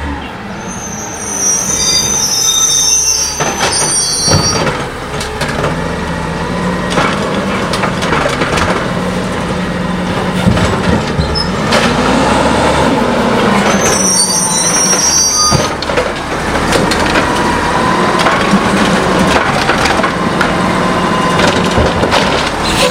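CNG Heil Scorpion automated side-loader garbage truck at work: the engine runs steadily with its pitch rising briefly near the middle, amid many clanks and knocks. High metallic squeals come twice, early and again past the middle.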